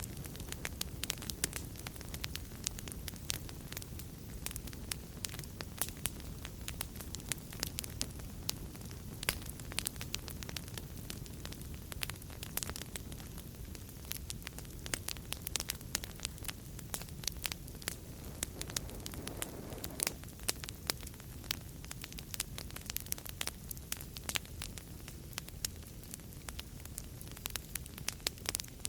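Wood fire in a fireplace crackling: frequent irregular sharp pops and snaps over a steady low rumble of burning flames.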